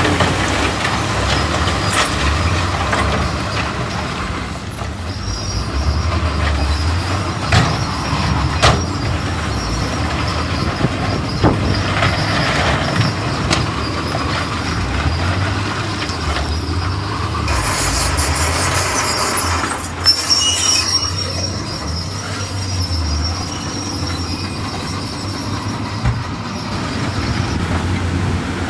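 Heavy diesel earthmoving machinery working: a steady low engine rumble with scattered metallic clanks and a thin, high squeal that holds for most of the time. A burst of hiss lasts about two seconds, about two-thirds of the way through.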